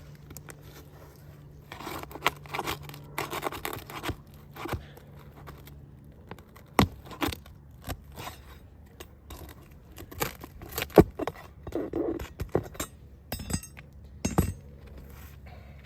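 Roof shingles being pried and pulled apart where the courses are stuck together: irregular scraping and tearing, with several sharp clicks and knocks.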